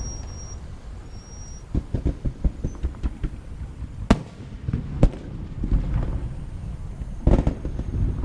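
Fireworks going off: a steady run of booms and crackling, with two sharp loud bangs about four and five seconds in and a quick burst of reports near the end.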